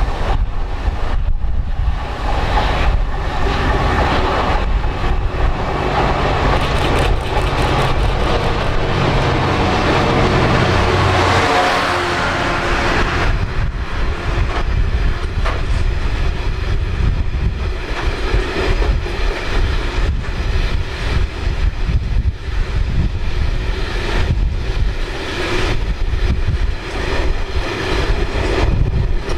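A train passing close by: a steady loud rumble, with the wheels clicking over the rail joints through the second half.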